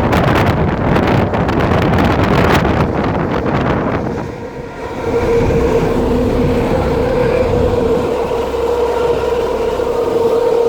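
A moving passenger train heard from its carriage window: loud rushing and rumbling of the wheels on the rails. About four seconds in, the sound changes abruptly and a steady humming tone at one pitch sets in over the running noise.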